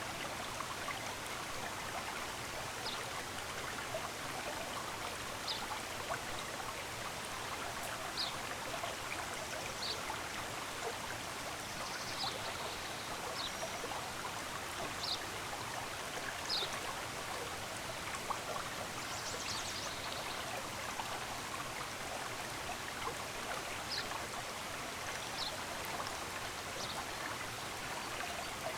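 Running water flowing steadily, with birds chirping over it: short high chirps every second or two and a couple of brief trills.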